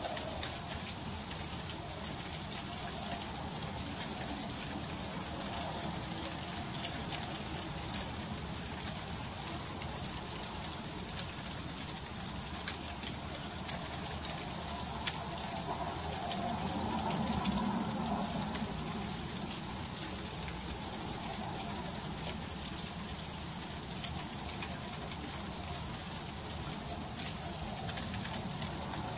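Freezing rain falling steadily, a continuous hiss dotted with many fine ticks as drops strike icy surfaces. A faint low rumble swells and fades a little past the middle.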